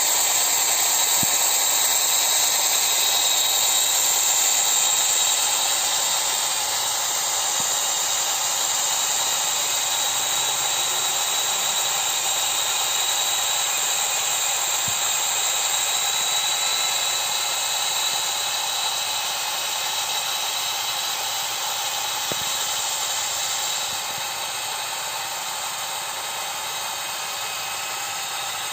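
The small motors of a homemade model Kubota DC-93 combine harvester run steadily as it cuts thick rice, making a high whine over a hiss. The level drops slightly about six seconds in and again near the end.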